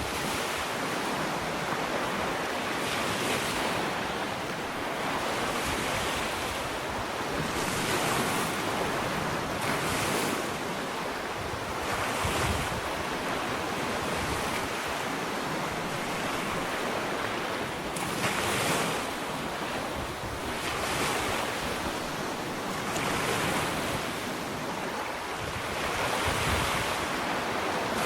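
Ocean waves breaking and washing up a sandy beach, a continuous surf hiss that swells and ebbs every two seconds or so.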